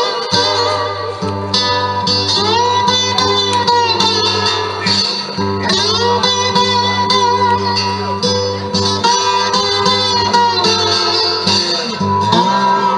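Live blues band playing an instrumental break on guitars, with notes sliding and bending in pitch over a steady low bass line.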